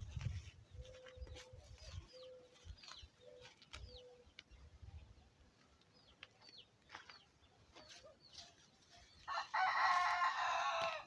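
A rooster crows once near the end, one long call of about two seconds; faint short chirps of small birds come before it.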